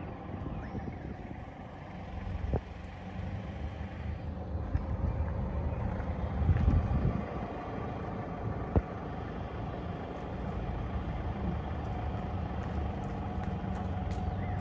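A motor vehicle engine running steadily, a low hum that swells briefly about halfway through, with a couple of short sharp knocks.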